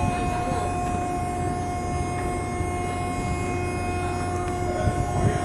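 Steady drone of a car ferry's engines and onboard machinery, with a few held tones over a low rumble and a few low knocks near the end.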